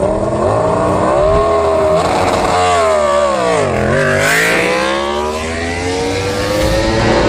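Racing motorcycle engine, its pitch falling to a low point about halfway through and then climbing steadily again as it revs back up.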